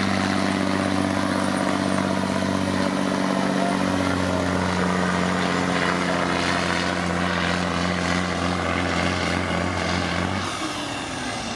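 Diesel semi truck engine under full load pulling the weight sled, a loud steady drone with heavy mechanical noise. The engine note drops off sharply near the end as the truck lets off.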